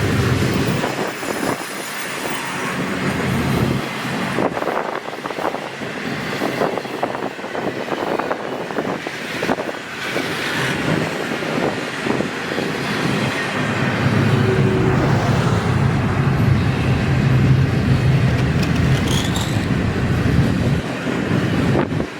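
Freight train cars of an intermodal train rolling past, wheels clacking over the rail joints. A low steady hum swells in the second half, and a brief high wheel squeal comes near the end.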